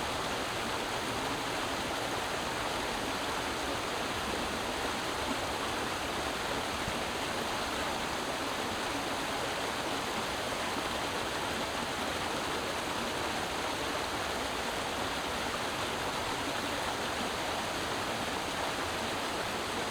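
Creek water running over rocks: a steady, even rushing and babbling.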